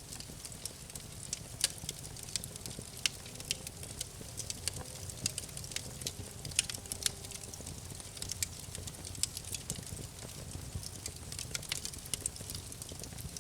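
Campfire burning with irregular sharp crackles and pops over a steady low rumble of flames.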